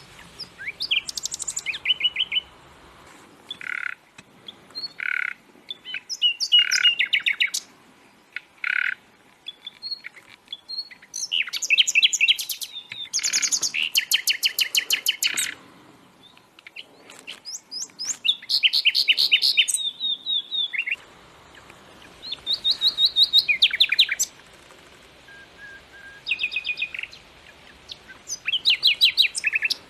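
Songbirds singing: a string of high, fast trilled phrases, each one to three seconds long, with short pauses between them.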